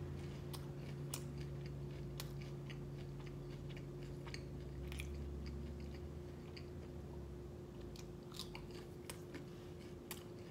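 A man chewing a mouthful of food close to the microphone, with small wet mouth clicks scattered through, over a steady low hum.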